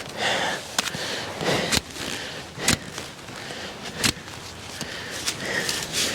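Rustling and scraping of soil, leaves and plants with about six sharp clicks, as a dandelion with a deep root is worked out of the garden soil.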